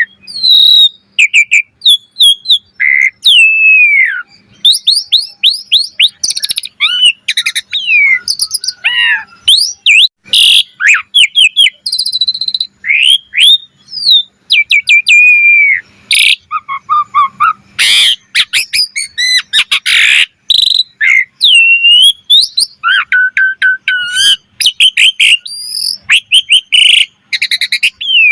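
Asian pied starling (jalak suren) singing a long, varied song: clear slurred whistles, fast rattling trills and harsh grating notes in quick succession.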